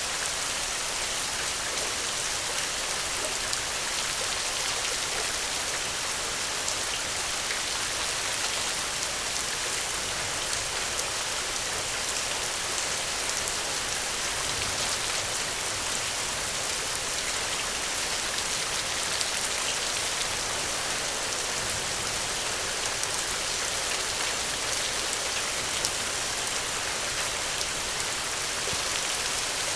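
Steady rain falling, a constant hiss of many small drops on a surface with no change in intensity.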